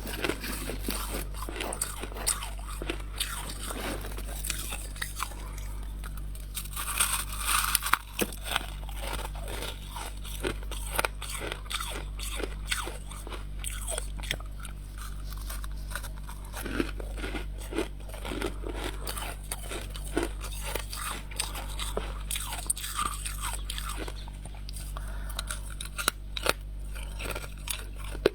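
Close-up crunching and chewing of frost scraped from a humidifier: many crisp, irregular crunches as mouthfuls are bitten and chewed, with a noisier stretch of grinding about seven seconds in.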